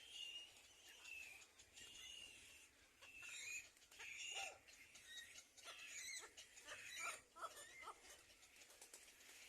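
Small birds at a nest chirping faintly: thin, high calls repeating throughout, with a quicker run of short, sharp notes and clicks in the second half.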